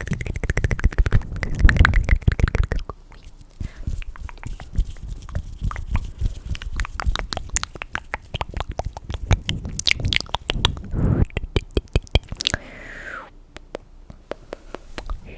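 Close-miked ASMR trigger sounds: a fast, dense run of wet clicks and crackles, heaviest and with a low rumble over the first three seconds.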